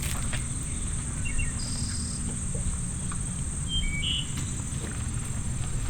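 Outdoor ambience: a steady high insect drone with a few short bird chirps and a low rumble underneath.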